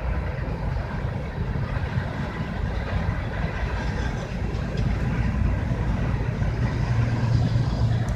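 Diesel freight locomotive running with a steady low rumble and hum, the hum growing stronger in the last couple of seconds.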